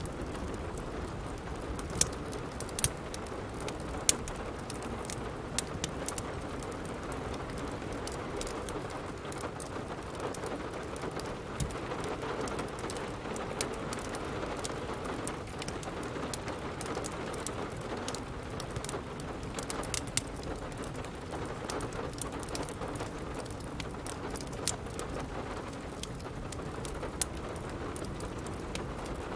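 Steady rain, with the crackle of a wood fire in a fireplace: scattered sharp pops and snaps over the even hiss, a few louder ones in the first few seconds and again around twenty seconds in.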